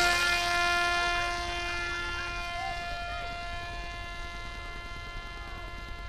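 Parrot Disco drone's electric propeller motor running at a steady high whine after spinning up for take-off, growing gradually fainter as the wing flies off.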